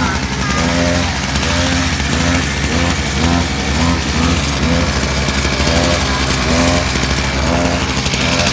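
Kids' V-Fire mini motorcycle running: a steady motor drone with short rising-and-falling tones repeating about twice a second.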